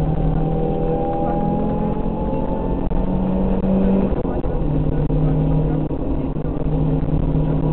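Rally car engine heard from inside the cabin, running hard at speed, its pitch climbing gently and then holding, with a brief drop in revs about four seconds in before it picks up again.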